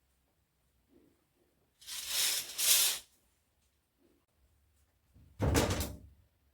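Two household handling noises, each about a second long and a few seconds apart: something sliding or scraping, the second with a dull low thud in it.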